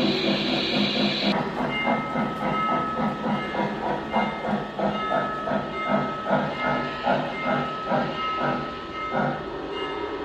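Steam locomotive letting off a hiss of steam, then chuffing at a steady beat of about two to three chuffs a second; the chuffing stops about nine seconds in.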